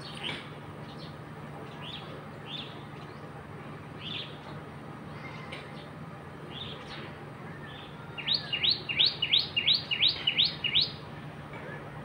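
Birds chirping: short single chirps every second or so, then, about eight seconds in, a quick run of about eight loud rising notes lasting under three seconds, over a steady low hum.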